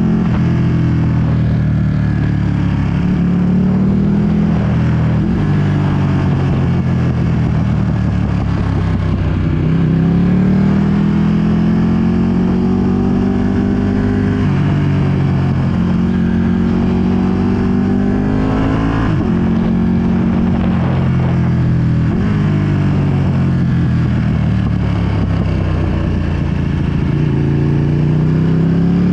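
2020 Ducati Panigale V2's V-twin engine through a full Akrapovic exhaust, under way and pulling through the gears: the pitch climbs several times and drops back at each shift or roll-off. Wind noise rushes over the microphone throughout.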